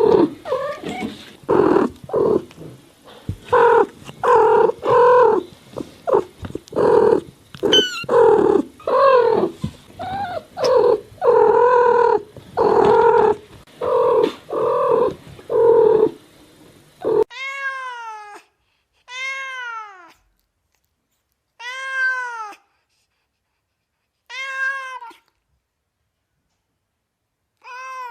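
Cats meowing: a rapid run of short, closely spaced meows over a background hiss, then from about two-thirds of the way in, single clean meows every two to three seconds, each sliding down in pitch.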